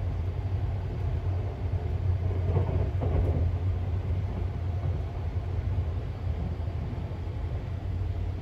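Running noise of a 285-series sleeper electric train heard from inside the cabin: a steady low rumble of wheels on rail, with a brief louder rattle from about two and a half to three and a half seconds in.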